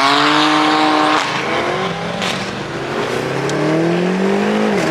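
Car engine accelerating through the gears: its pitch climbs, drops at a gear change about a second in, then climbs again for about three seconds before dropping at another shift near the end.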